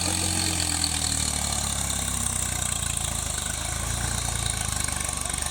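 Tractor engine idling steadily, its pitch easing down slightly in the first second or two.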